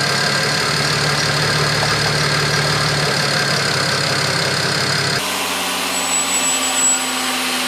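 BMW E92 335i's turbocharged inline-six idling steadily on freshly fitted spark plugs, which the owner feels have cured its misfire. The sound changes abruptly about five seconds in.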